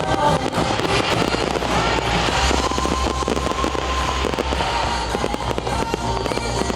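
Fireworks crackling in a dense rapid stream of small pops, over music holding a long steady note.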